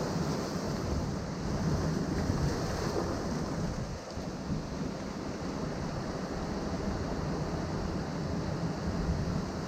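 Ocean surf breaking among rocks on the shore, a continuous wash of waves that eases briefly about four seconds in.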